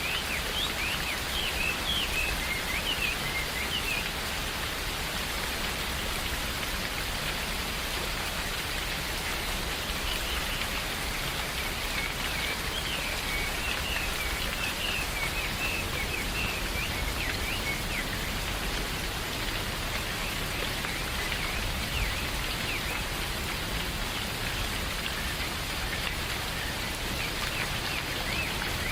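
Steady rain falling in a forest, with birds chirping in short bursts near the start and again about halfway through.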